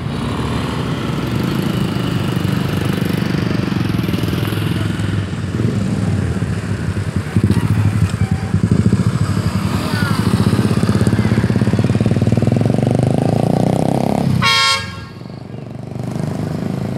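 Train rumbling through a railway level crossing, with motorcycle engines running close by. A short, loud horn toot sounds about three-quarters of the way through, after which the rumble falls away and lighter motorcycle engine noise remains.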